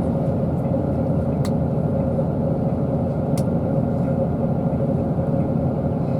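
Steady engine and road rumble inside a bus under way, with a steady hum and two light clicks, the first about a second and a half in and the second about three and a half seconds in.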